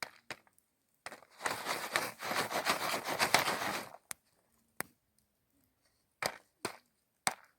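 Jiffy Pop foil popcorn pan crackling densely for about three seconds, followed by a few separate sharp clicks.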